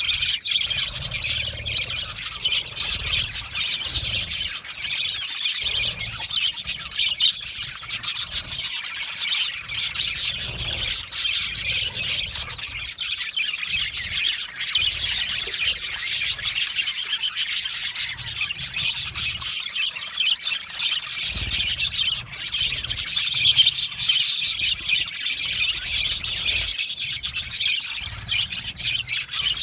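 A flock of budgerigars chirping and warbling nonstop, many birds overlapping in a dense, steady chatter.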